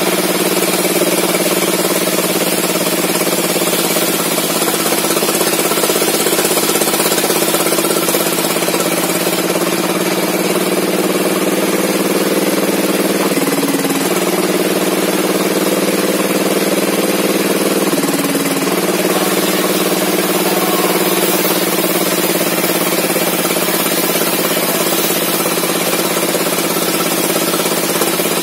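Small engine driving a log saw, running steadily at a constant speed. Its pitch dips briefly twice, about halfway through and again a few seconds later.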